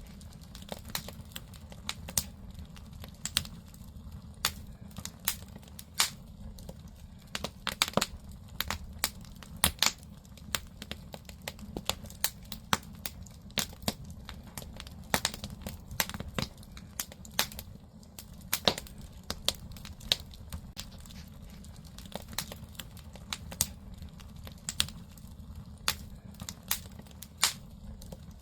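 Firewood crackling and popping in a traditional Korean agungi firebox: irregular sharp pops and snaps, several a second, over a steady low rumble of the fire.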